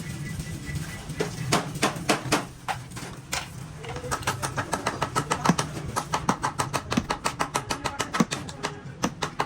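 Hammer striking sheet-metal car door panel: scattered blows at first, then a fast, even run of about five blows a second from about four seconds in, some of them ringing.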